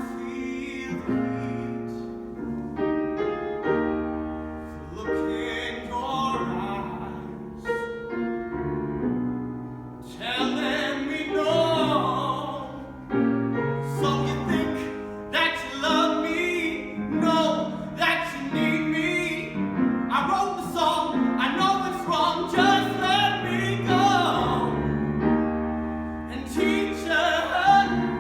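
A solo voice singing with vibrato over piano accompaniment.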